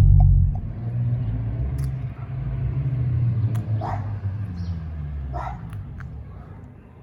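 Toyota Corolla 1.2T turbocharged four-cylinder with an upgraded aftermarket exhaust, loud at first and then fading as the car moves away on a drive-by. A couple of short sharp calls cut in midway.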